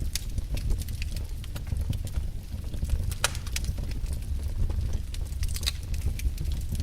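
Wood fire in a fireplace crackling over a steady low rumble of flames, with irregular sharp pops; the loudest pop comes about three seconds in and a quick cluster follows a little later.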